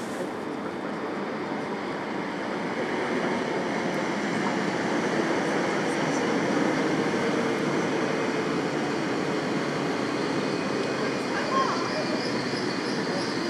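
Passenger train running along the far platform: a steady rumble of wheels on rail that grows louder over the first few seconds and then holds. Near the end a high, rapidly pulsing squeal from the wheels joins in.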